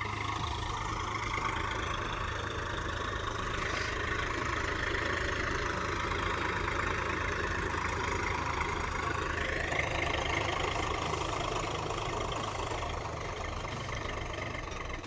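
A 48 hp farm tractor's diesel engine running steadily.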